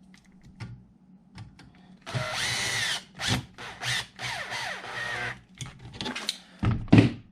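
Small cordless power screwdriver driving screws into the frame in several short bursts, its motor whine rising and falling with each run. A few small clicks of parts being handled come first, and a knock near the end.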